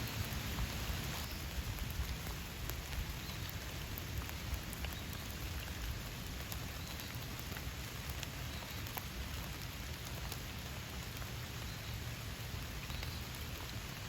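Steady rain falling: an even hiss with many scattered drop ticks.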